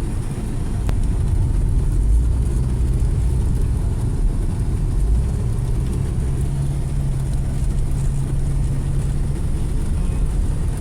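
Ford Escape driving, heard from inside the cabin: a steady low rumble of engine and road noise, with an engine drone that rises slightly in pitch partway through. The mechanic says the engine is misfiring and low on power.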